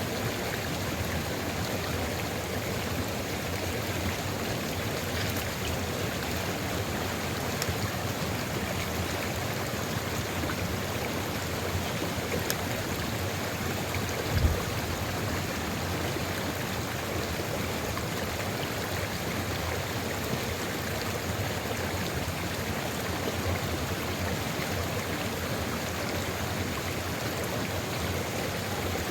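Sulfur river at Ijen crater flowing steadily, an even rushing water sound. About halfway through there is a brief low thump.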